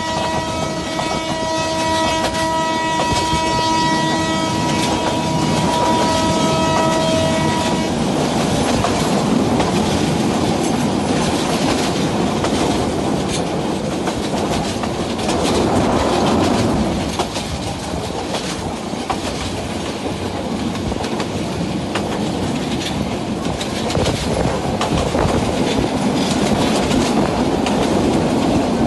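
Train horn sounding a long, steady multi-tone blast for about eight seconds, with some of its tones dropping out briefly midway. Then the train runs on with the rumble and clickety-clack of wheels over rail joints.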